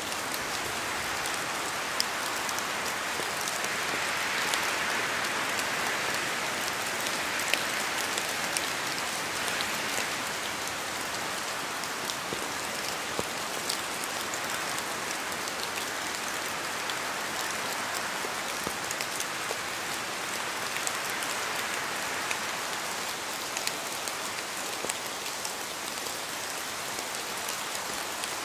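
Steady rain falling, with the patter of individual drops striking a surface, swelling a little a few seconds in.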